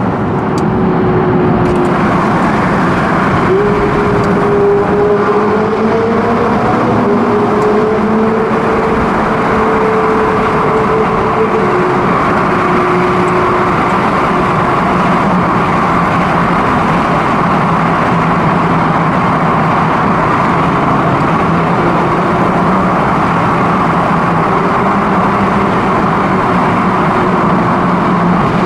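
Ferrari 488 GTB's twin-turbo V8 running at a steady, moderate pace over dense road and tyre noise. The engine note drifts gently up and down in the first half, then holds steady, with no hard revving.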